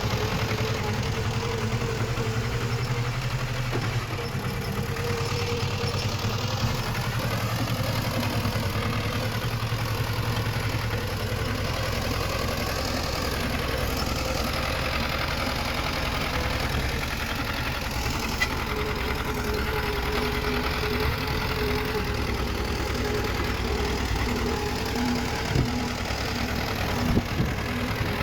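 Diesel engine of a Komatsu D20 bulldozer running steadily at a low, even speed, with a few short knocks near the end.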